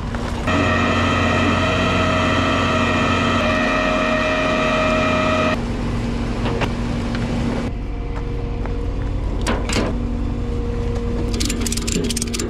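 Vehicle engine and machinery running while a car is loaded onto a flatbed tow truck. A steady whine starts suddenly about half a second in and stops suddenly about five seconds later, leaving a lower steady hum, with a few clicks and rattles near the end.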